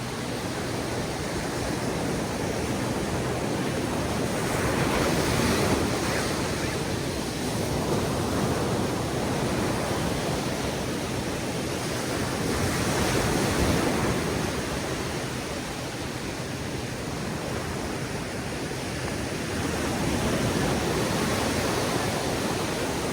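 Ocean surf: waves breaking on a beach over a steady hiss of water, the rush swelling about every eight seconds.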